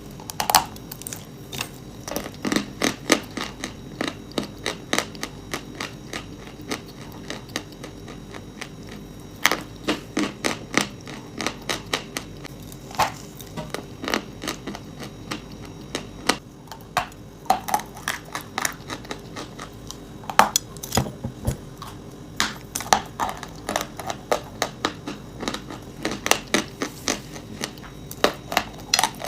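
Crisp crunching of dry chalk and clay chunks, in clusters of sharp cracks separated by short pauses.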